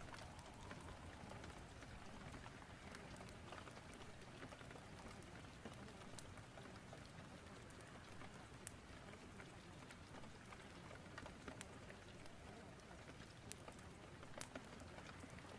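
Faint, steady rain, with scattered sharp crackles and pops of a wood fire.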